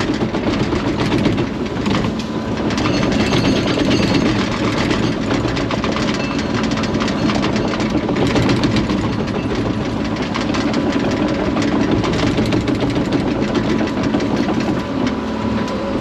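Excavator's diesel engine running steadily, with many short sharp clicks and cracks over it.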